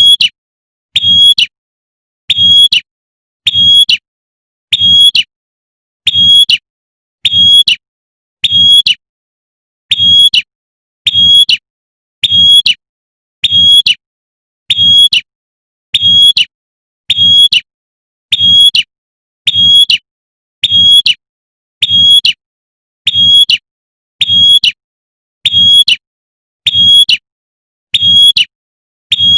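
Female prinia (prenjak) 'tembakan' call, the lure call used to draw in males, repeated identically about every 1.25 seconds. Each is a short, high note with a low rumble under it.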